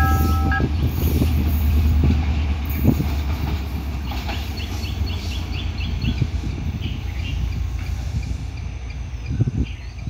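Sri Lanka Railways S13 diesel multiple unit running away from the listener, its low engine and wheel rumble slowly fading as the train recedes. Birds chirp a few times about halfway through.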